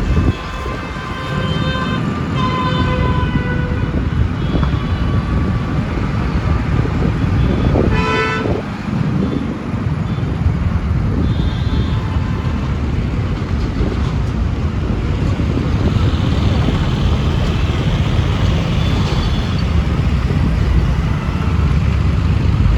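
Road traffic: a steady low rumble of engines and tyres, with vehicle horns honking several times, the loudest about eight seconds in.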